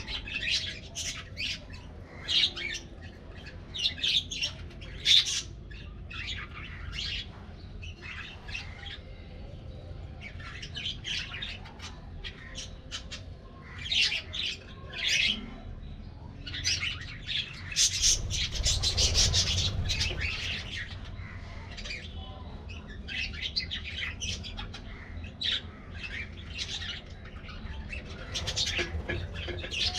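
A flock of budgerigars chattering and chirping, many short high calls overlapping, with a busier, louder stretch about two-thirds of the way through.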